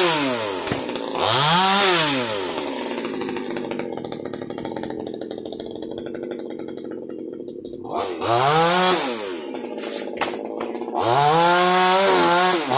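Top-handle chainsaw's small two-stroke engine revved and let back to idle: it drops from full throttle at the start, blips briefly twice, idles in between, and goes back to full throttle near the end. A few sharp knocks come about ten seconds in.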